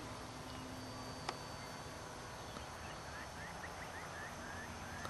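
Faint outdoor hiss with a single sharp click about a second in. In the second half a bird calls: a quick run of about nine short, evenly spaced notes.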